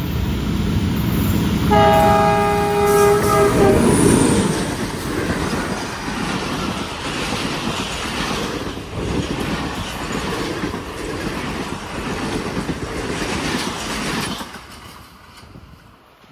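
ZCU20 diesel-electric locomotive and its passenger coaches passing close by at speed. The horn sounds one blast of several tones about two seconds in, lasting about two seconds. The coaches follow with clickety-clack of the wheels over the rail joints, and the sound falls away after about fourteen seconds as the train moves off.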